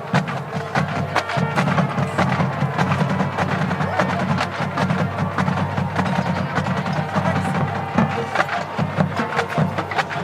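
Marching percussion playing: snare drums and other drums in a fast, dense stream of sharp strokes.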